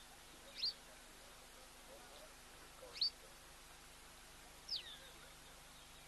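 A bird calling off-camera: three short, high, down-slurred chirps about two seconds apart.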